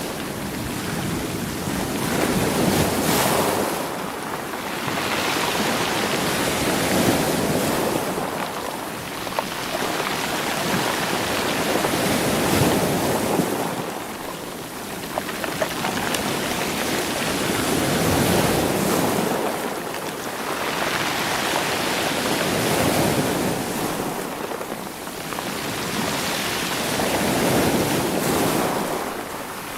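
Sea waves washing onto a rocky shore and tumbling the stones, surging and drawing back about every five seconds.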